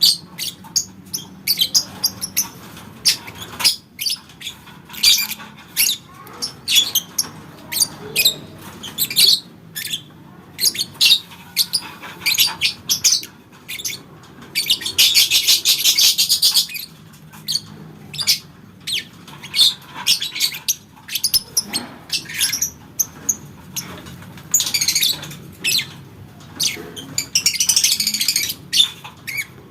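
Lovebird calling: a quick run of short, sharp, high chirps, broken about halfway through by a dense chattering trill of about two seconds, the long chatter keepers call ngekek. Shorter chattering runs come near the end.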